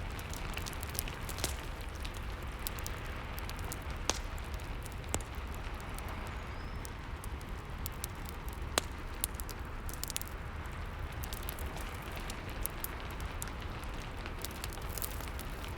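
Rain and fireplace ambience: a steady hiss of rain with the irregular crackles and sharp pops of a burning wood fire scattered through it.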